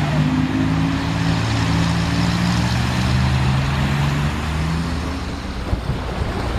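Large truck's engine running with a low, steady drone over a constant rushing hiss; the drone fades out about five seconds in.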